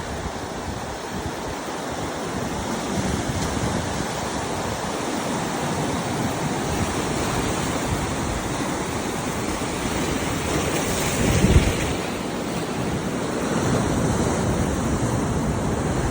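Ocean surf washing in with gusty wind buffeting the microphone, with a louder rush about eleven and a half seconds in.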